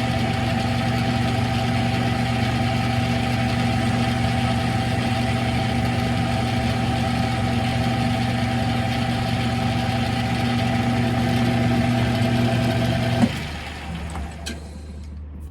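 Smithy CB-1220XL 3-in-1 lathe running with a steady motor hum, then switched off with a click about thirteen seconds in, after which the sound drops to a faint low hum.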